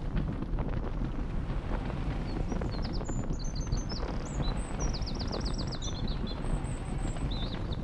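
Small birds chirping, with a quick trill of rapidly repeated notes about five seconds in, over a steady low rumble.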